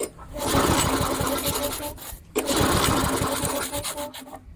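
Tecumseh small engine on a walk-behind lawn mower running in two stretches of about two seconds each at a steady pitch. It cuts off suddenly about two seconds in, runs again, and stops shortly before the end.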